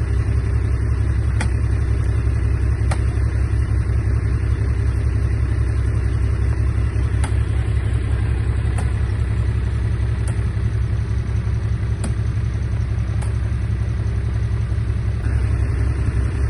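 Komatsu D31A bulldozer's diesel engine running with a steady low rumble, with light clicks recurring every second or two.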